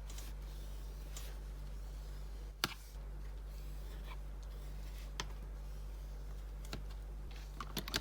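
A few sharp clicks and taps of small objects being handled on a work surface, the loudest about two and a half seconds in and a quick cluster near the end, over a steady low electrical hum.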